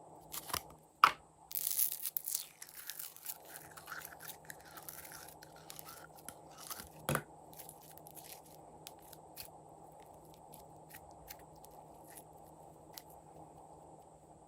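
Glossy slime being mixed by hand, with sticky crackles and small clicks. A sharp click comes about a second in, followed by a short stretch of dense crackling, then fainter scattered clicks.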